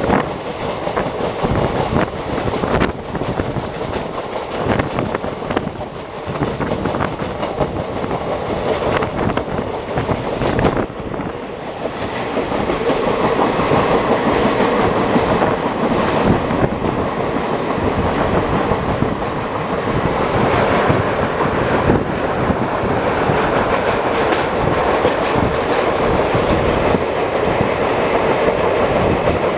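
Passenger train running at speed, heard from on board: a steady rumble of the coach with a rapid clatter of wheels over rail joints and points. It eases briefly about a third of the way in, then runs a little louder and steadier.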